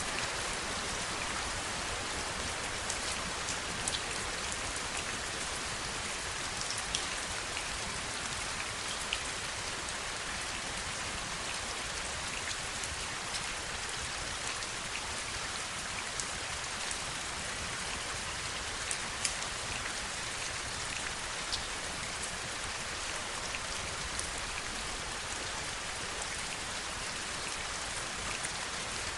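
Steady heavy rain: an even hiss with scattered sharp ticks of individual drops striking a surface.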